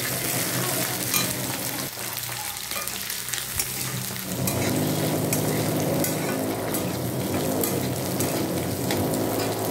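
Green peas, cashews and fried onion sizzling in hot ghee in a kadhai, stirred with a spatula that scrapes and clicks against the pan. The sizzle gets louder about halfway through.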